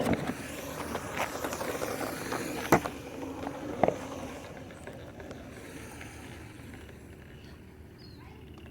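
Electric skateboard wheels rolling on pavement: a steady rolling noise with a few sharp clicks, fading away.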